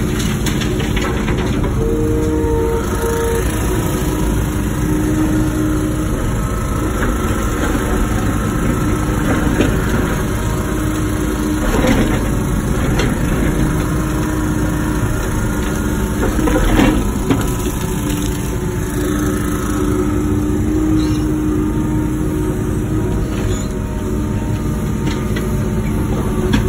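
Wacker Neuson ET145 excavator's diesel engine and hydraulics running steadily under work, with steady tones that come and go. Two sharp knocks sound partway through.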